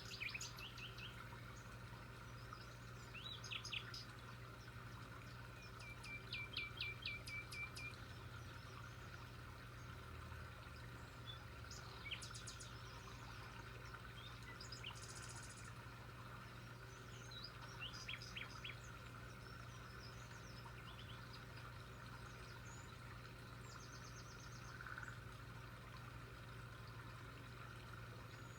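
Faint birdsong: scattered short chirps and a few quick trills of repeated notes from small birds, over a steady low background hum.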